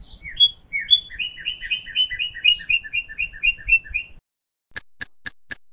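A bird chirping in a quick, regular run of two-note chirps, about four a second, that stops about four seconds in. Near the end come short, evenly spaced clicks, about four a second.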